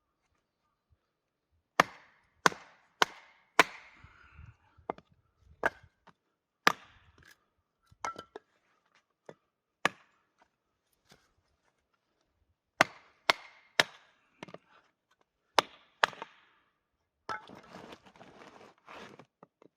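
Firewood being chopped with a hatchet: sharp, single strikes in irregular runs, about a dozen in all, with a short pause midway. Near the end there is a few seconds of rustling and scraping.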